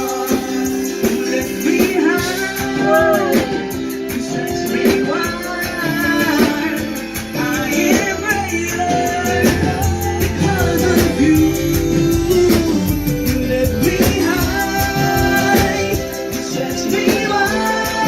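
A church worship band playing a song, with singing over guitar and a steady backing of sustained chords.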